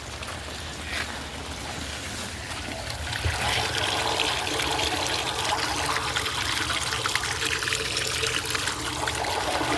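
Rainwater running and trickling along flooded pavement, growing louder from about three seconds in.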